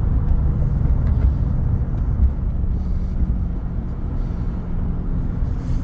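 Car interior road and wind noise with a window rolled down while driving: a steady low rumble.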